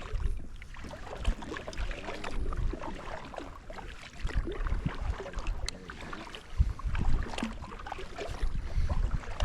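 Water sloshing and splashing around a kayak, with scattered knocks and low thuds from the boat and some wind on the microphone.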